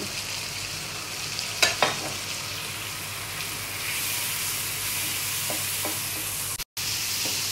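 Onions and ginger-garlic paste sizzling in oil in a non-stick pan as ground spices are tipped in and stirred with a wooden spatula. There are two sharp knocks just under two seconds in, and the sizzle grows louder from about four seconds in. The sound cuts out for an instant near the end.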